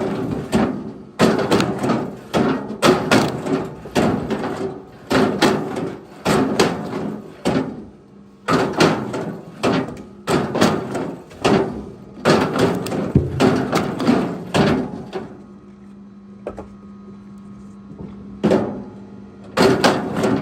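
Chunks of firewood being thrown down and knocking against wood, roughly once a second, over a steady low hum. The knocking pauses for about three seconds near the end, then starts again.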